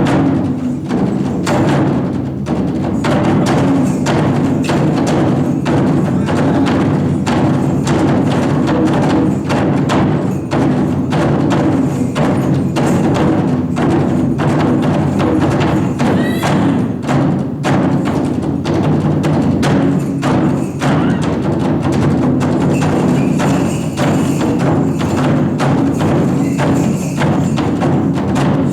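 Taiko drum ensemble playing a fast, driving rhythm of dense, evenly spaced drum strikes with sharp wooden clicks. A brief rising high note sounds about halfway through.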